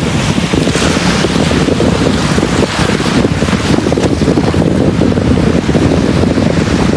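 Sea waves washing onto a beach under a steady low rumble of wind buffeting the microphone, with surf hiss rising and falling gently.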